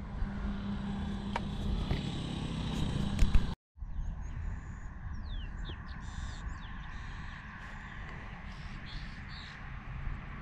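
Outdoor ambience with a steady low rumble; after a brief dropout about a third of the way in, birds call, a few quick falling chirps followed by more scattered chirps.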